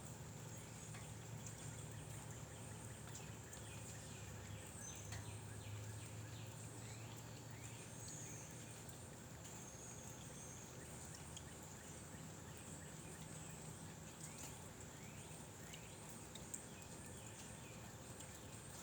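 Faint outdoor ambience: birds chirping in many short, falling calls over a steady high insect drone and a low steady hum.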